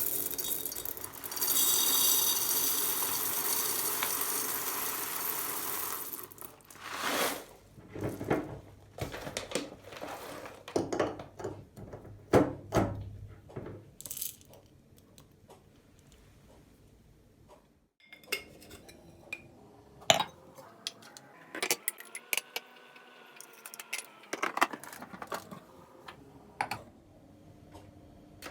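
A steady hiss for about six seconds, then scattered clinks and knocks of dishes and utensils being handled in a kitchen.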